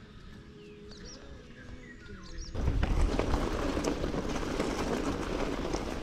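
Birds chirping, a few short high calls over quiet outdoor background. A little less than halfway through, a loud steady rushing noise cuts in abruptly and covers them.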